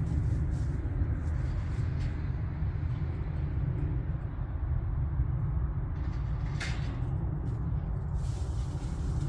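An engine running steadily with a low rumble, as from farm machinery at work, with one short sharp scrape or click about six and a half seconds in.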